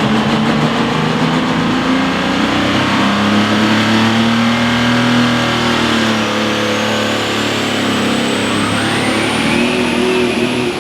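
A pulling vehicle's engine running hard and loud at high revs during a sled pull. A high whine climbs steadily in pitch through the second half.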